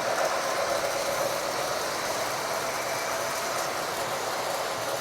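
Model trains running on the layout: a steady running noise of the trains' motors and wheels on the track.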